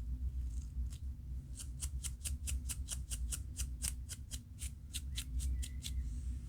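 Scalp being scratched through locs to loosen dandruff: a quick run of short, dry scratching strokes, about five a second, starting after a second or so and stopping near the end, over a steady low hum.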